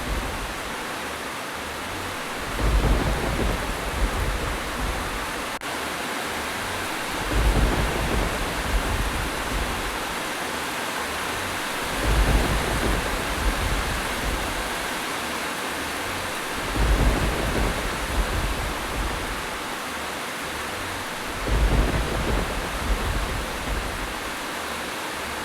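Steady rain hiss, with a low rumble of thunder swelling for a second or two about every five seconds.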